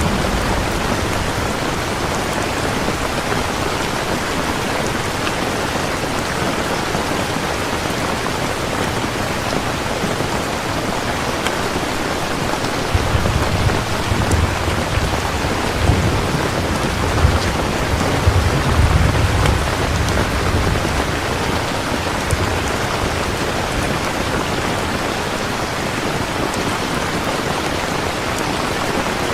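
Steady, dense rainfall hissing throughout, with a low rolling rumble of thunder about halfway through that lasts several seconds.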